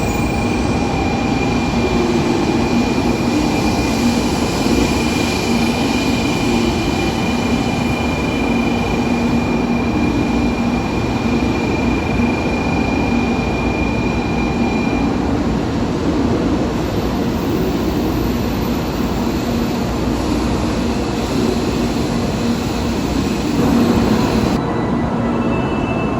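Train at a station platform, a steady rumble with a low hum from its machinery and a thin high whine that fades out about fifteen seconds in.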